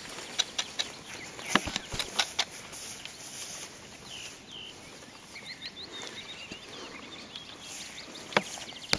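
Scattered sharp snaps of dry sticks, bunched in the first two and a half seconds and once more near the end, with a bird chirping a few times in between.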